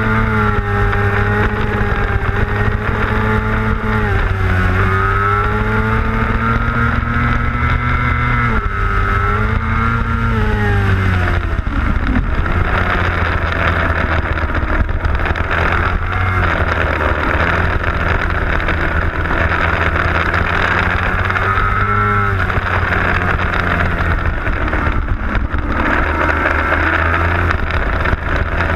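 600cc sport motorcycle engine at racing revs, heard from on board with wind rush on the microphone. Its pitch rises and falls with gear changes and throttle, drops sharply about nine to twelve seconds in as the bike slows for a corner, and dips and climbs again a little past the twenty-second mark.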